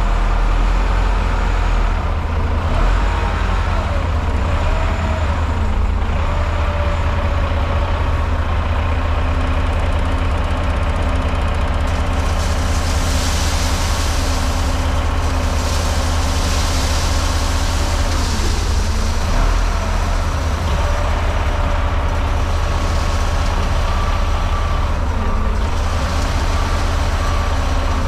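Heavy diesel equipment running while road salt is loaded into a dump truck, the engine pitch wavering in the first few seconds. A rushing hiss comes in about twelve seconds in and again near the end.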